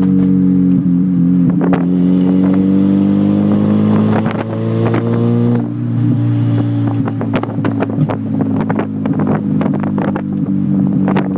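Unmuffled Mazda 323 engine running with no exhaust, its note rising steadily as it pulls for a few seconds, then dropping off about halfway through. A run of sharp pops and cracks from the open exhaust follows as it comes off the throttle.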